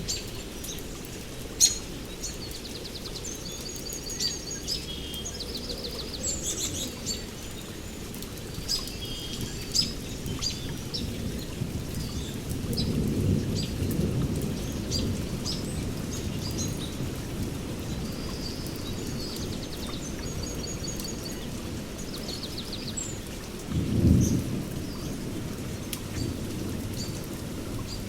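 Steady rain with low, distant thunder rumbling: it swells in the middle and gives one short, louder rumble near the end. Birds chirp and trill on and off throughout, with sharp drip-like ticks.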